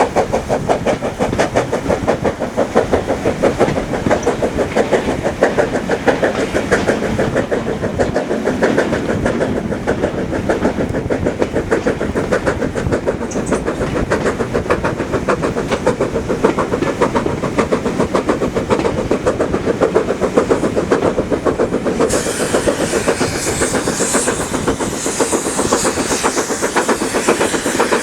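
A train running, with a fast, steady rhythmic beat. A hiss comes in about three-quarters of the way through.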